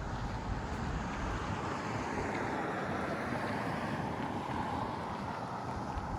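Steady rushing noise of an outdoor city street, swelling a little and easing off again in the middle, as of traffic passing, with wind on the microphone.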